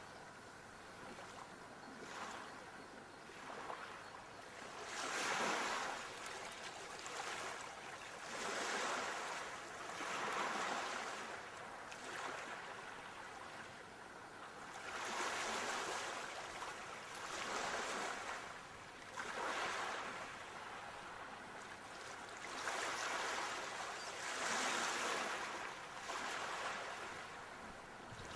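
Ocean waves surging and washing on the shore, the rush of surf swelling and fading every few seconds.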